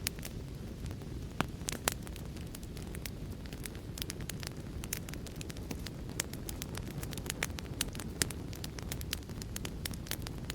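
Wood fire burning, with a steady low rumble under frequent sharp, irregular crackles and pops.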